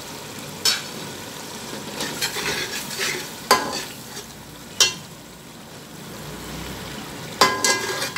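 Minced meat frying in ghee in an aluminium pot, sizzling steadily while it is stirred, with a metal utensil scraping and clinking against the pot several times.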